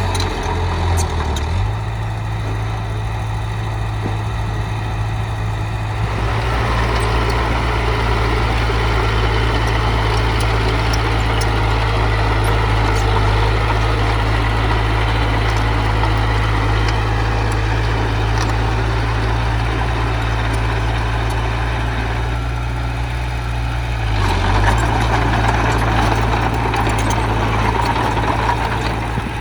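Diesel engine of a heavy earthmoving machine running steadily. It gets busier and a little louder about six seconds in and again near the end, with faint light clicks over it.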